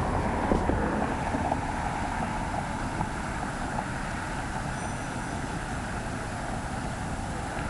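Wind rushing over the microphone and bicycle tyres rolling on a paved trail during a ride, with a few light clicks and rattles in the first second and a half.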